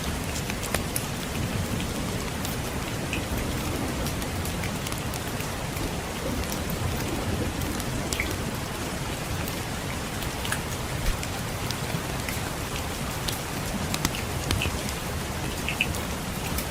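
Steady rain falling, mixed with the scattered sharp crackles and pops of a wood fire in a fireplace.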